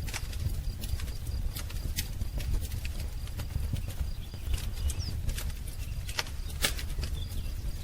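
Wood fire crackling: irregular sharp pops and snaps over a steady low rumble of burning logs, with faint bird chirps in the background.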